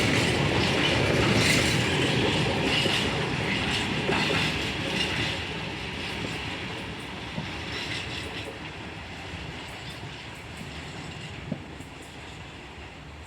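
Container freight train's wagons rolling slowly past on the rails, wheels clicking over rail joints, the sound fading away steadily as the train draws off.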